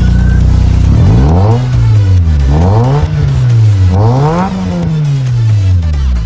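A Nissan Silvia S15's turbocharged SR20DET four-cylinder, fitted with HKS step 1 camshafts and a Yashio Factory muffler, idling and then revved in three quick blips about a second and a half apart, dropping back to idle near the end.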